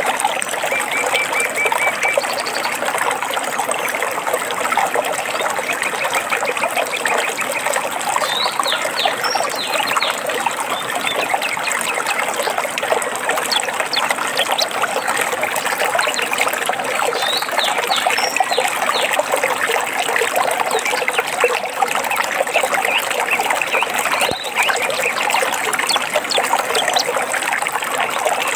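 A forest stream trickling and splashing steadily, with songbirds calling over it: a short, even trill about a second in and again around six seconds, and brief high chirps in small clusters later on.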